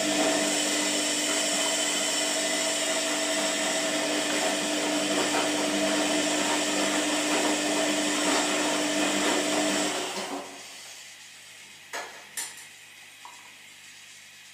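Washing machine motor running with a steady whine over a rushing noise, cutting out after about ten seconds, followed by two sharp clicks.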